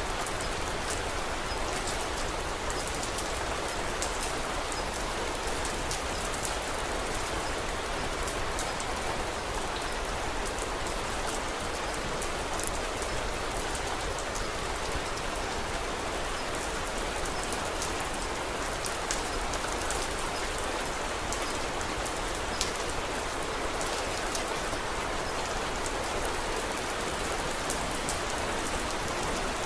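Steady rain falling on a surface, with many small sharp drop ticks over it and one louder click about twenty-two seconds in.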